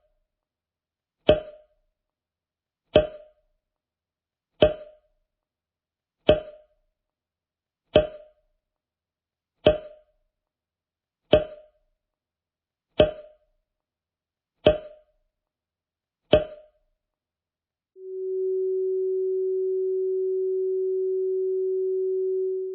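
Electronic sound effects: a short, sharp pop repeated ten times at an even pace, about every 1.7 seconds. Then a steady, pure, mid-low sine tone begins about 18 seconds in and holds.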